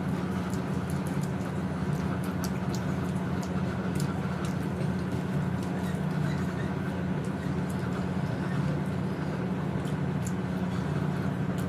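A steady low mechanical hum with faint small clicks scattered through it.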